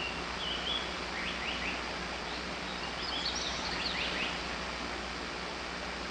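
Wild songbirds singing in short phrases of high chirps and quick down-slurred notes, in two bursts, over a steady background hiss.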